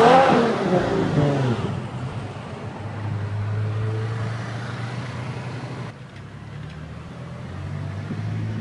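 Ferrari F12berlinetta's V12 revving hard as the car pulls away: a loud rev whose pitch falls over the first second and a half, settling into a steadier engine note as it drives off. About six seconds in the sound cuts to a quieter, low, steady engine note from a BMW saloon rolling slowly past.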